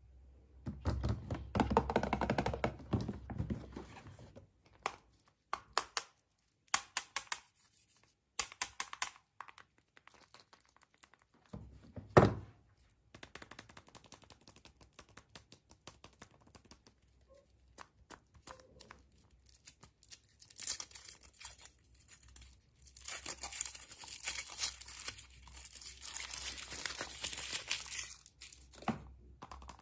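Packaging being handled and torn open by hand: rustling and tearing of wrapping, scattered clicks and taps, one sharp thunk about twelve seconds in, and a long stretch of crinkling near the end.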